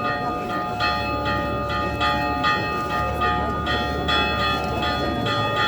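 Church bell ringing in quick repeated strikes, about two a second, each stroke left ringing.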